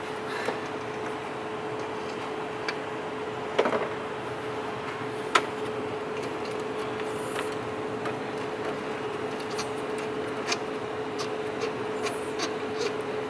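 Scattered metallic clicks and knocks of a ratchet and spanner working on an engine's belt tensioner bolt, over a steady hum.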